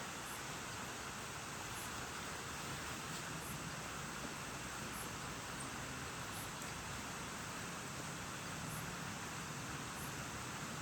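Steady rain falling, an even hiss with no pauses, with faint short high ticks every second or so.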